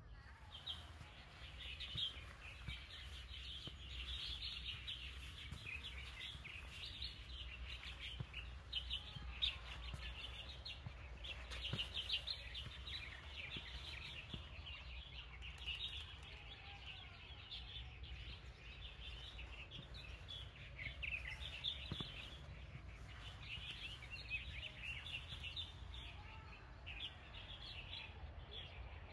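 Many small birds chirping and twittering without a break, over a low steady rumble.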